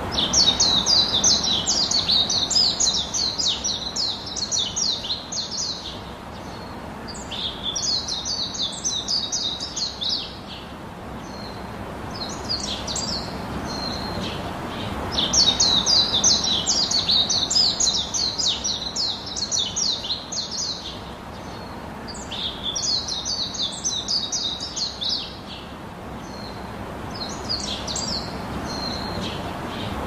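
Birdsong: rapid high chirps delivered in repeated phrases a few seconds long, with short pauses between them.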